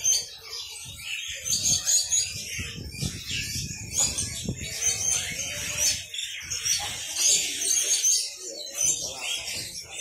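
Many caged small birds chirping and twittering, with short high chirps overlapping throughout over low background noise.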